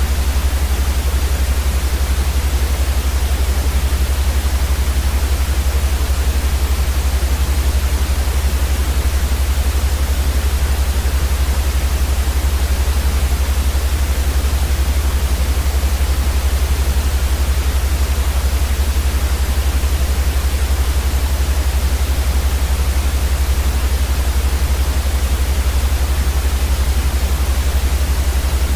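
Steady, unchanging white noise for sleep: an even hiss across all pitches over a louder deep rumble at the bottom.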